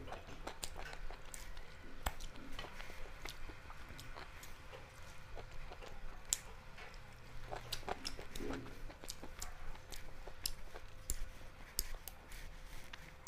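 Close-up chewing of a person eating peas pulao and chicken curry by hand, with many small wet mouth clicks throughout.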